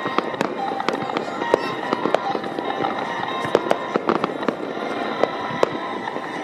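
Fireworks display: shells bursting in an irregular string of sharp bangs and crackles, several a second at times.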